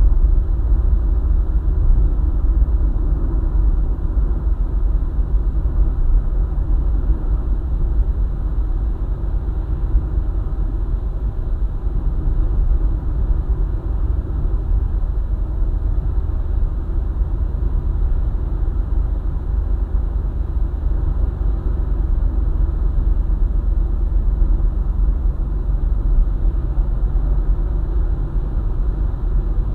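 Steady low rumble of a car driving along a highway: engine and tyre road noise at constant speed.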